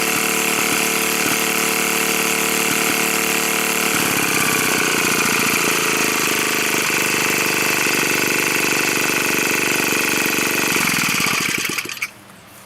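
Tecumseh single-cylinder engine of an old Craftsman 9-inch lawn edger running steadily, its tone changing about four seconds in. It winds down and stops near the end, after a test run to see whether the carburetor floods and leaks fuel.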